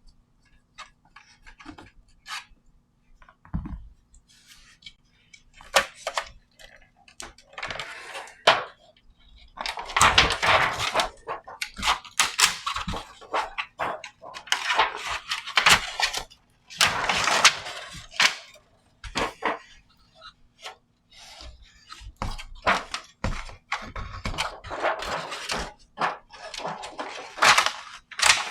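Handling noise from an Antminer APW8 power supply being worked on: scattered clicks and knocks, with louder rattling scrapes of its metal casing and parts in bursts through the middle and near the end.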